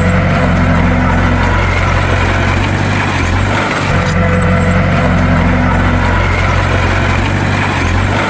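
Bulldozer's diesel engine running steadily at a low, even pitch, with a pattern that repeats about every four seconds.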